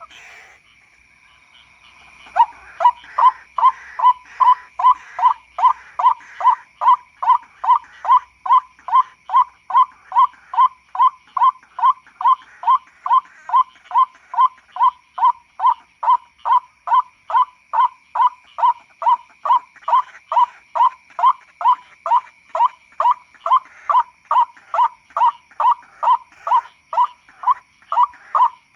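White-breasted waterhen calls, an even, unbroken run of 'kru-ak' notes at about two a second, played as a lure call. The calls pause at the very start and resume about two seconds in, over a faint steady high whine.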